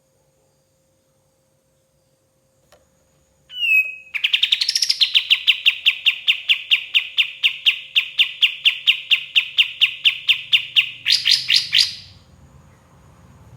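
A kapas tembak (white-shouldered triller) singing: after a short opening note, a long, loud string of quick, evenly repeated falling notes, about five a second, for some seven seconds, ending in a brief run of faster, higher notes.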